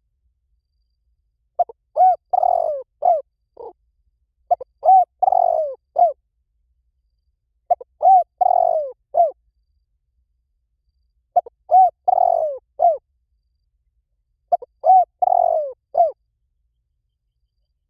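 Spotted dove cooing: five phrases about three seconds apart. Each phrase is a quick run of short coos with one longer coo in it.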